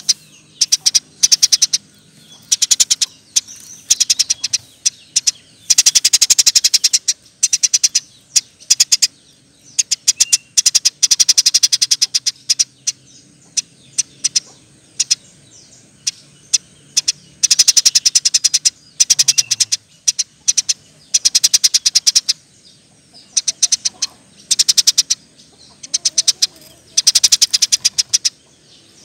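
Eurasian tree sparrow calling in rapid-fire bouts of sharp, high chirps, each bout about a second long with short pauses between. This is the fast, dense chattering that Indonesian bird keepers call 'nembak rapet'.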